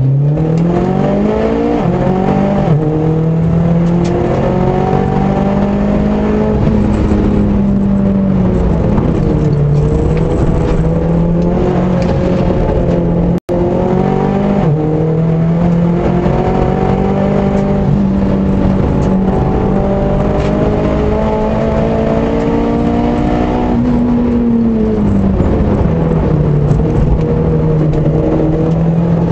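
Audi TT Mk1 engine under hard acceleration, heard from inside the cabin. Its note rises over the first couple of seconds, then holds nearly steady at high revs. Near the end it climbs briefly and falls sharply, and there is a short dropout about halfway through.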